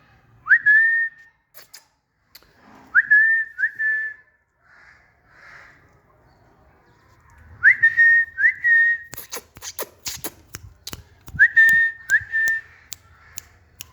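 Green parrot whistling: short clear whistles that each sweep sharply up and hold one note, coming singly or in quick groups of two or three. A run of sharp clicks or taps falls about two-thirds of the way through.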